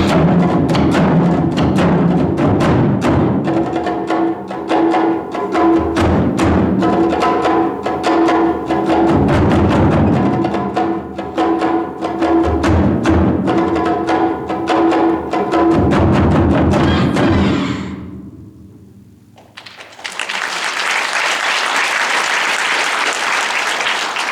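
Taiko drums struck in a fast, dense pattern over steady held tones, the piece fading out about 18 seconds in. After a short lull, audience applause starts about 20 seconds in.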